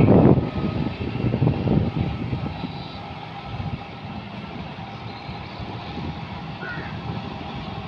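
John Deere 5210 tractor's diesel engine running with a Shaktiman rotavator churning mud. It is loud for about the first two seconds, then drops to a lower, steady level.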